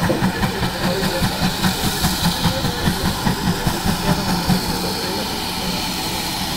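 Steam locomotive working, its exhaust beating regularly at about four a second, settling into a steadier sound in the last couple of seconds.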